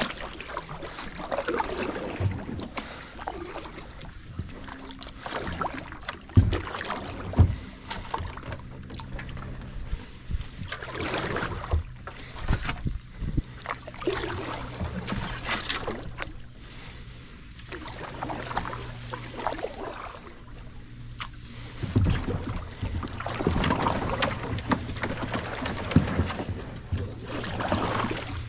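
Kayak paddling: paddle strokes swishing and splashing through the water at an uneven pace, with a few sharp knocks.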